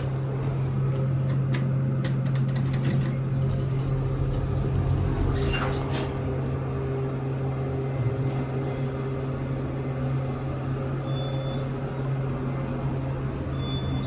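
Montgomery traction elevator running: a steady low hum from the drive, with a run of clicks in the first few seconds and two short high beeps near the end.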